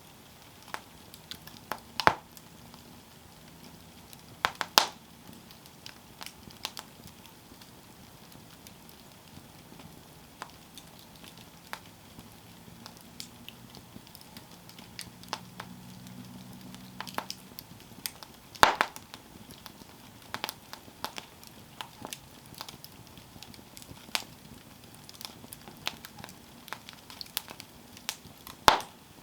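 Campfire of burning wood crackling, with sporadic small snaps and a few louder sharp pops about two, five, nineteen and twenty-nine seconds in.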